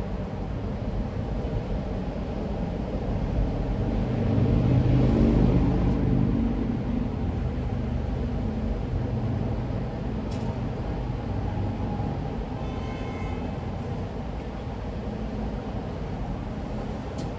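Car driving at highway speed: steady tyre and engine rumble of road noise, swelling louder for about two seconds around four seconds in, with a couple of faint clicks.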